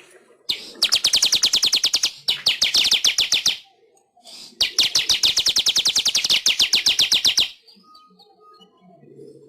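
Manyar (weaver bird) song: two runs of rapid, high notes repeated about ten a second, each lasting about three seconds, with a short break between them.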